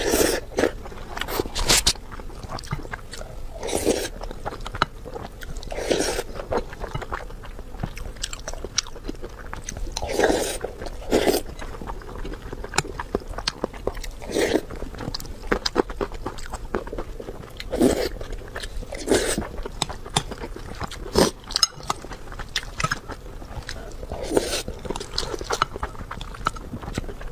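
Close-miked eating sounds: chewing and biting with many small crunchy clicks, and a louder bite or mouthful about every two seconds.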